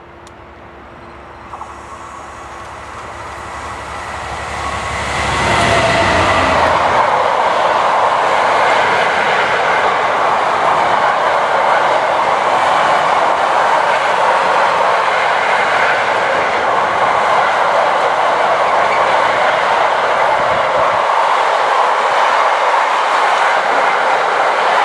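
A train approaching, growing louder over about five seconds, then passing close by with a loud, steady rolling noise of wheels on rail.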